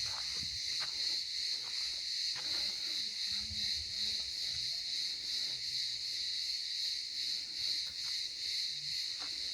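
A dense chorus of insects shrilling in one steady high-pitched band that pulses slightly, with a few faint ticks beneath it.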